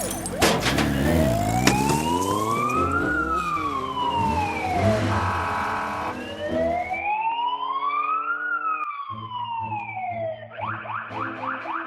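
Police car siren wailing in slow rises and falls, two full cycles, over a rushing noise that cuts off about seven seconds in, when background music comes in. Near the end the siren changes to a quick repeating sweep.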